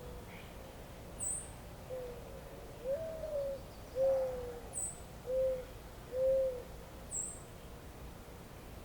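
A bird's low hooting calls, a series of five notes, the second sliding up and the rest falling slightly, over a faint steady hiss. Three short, very high chirps from another small bird come in between.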